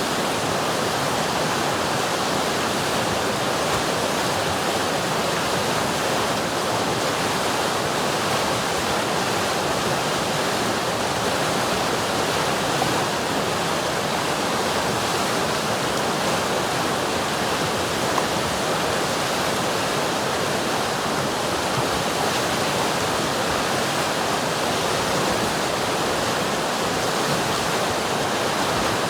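River water rushing and churning over rocks in a steady, unbroken rush of noise.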